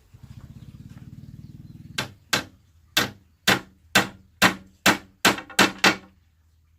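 Hammer striking a nail into wood, about ten blows roughly two a second, quickening toward the end. Before the blows there is a low buzzing rattle for about two seconds.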